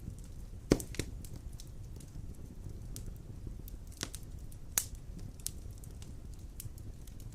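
Wood fire burning large logs in a stone fireplace: a steady low rumble of the flames with irregular crackles and snaps, the sharpest one just under a second in and another a little before five seconds.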